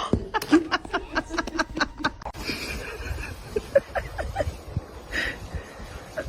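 A person snickering: quick short bursts of laughter over the first couple of seconds, then fainter scattered sounds.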